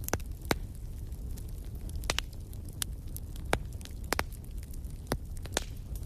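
Wood fire burning in a stone fireplace: sharp, irregular crackles and pops over a steady low rumble.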